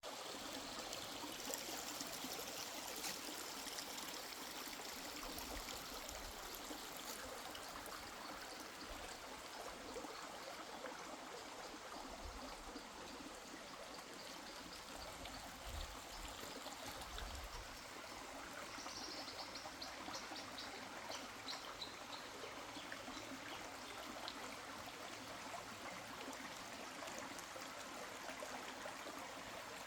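Mountain river flowing: a steady rush and trickle of running water.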